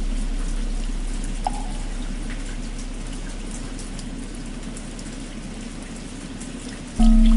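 Steady rainfall with the low hum of a large temple bell slowly dying away. There is a single wooden fish knock about a second and a half in, and the bell is struck again near the end, its hum swelling back loud.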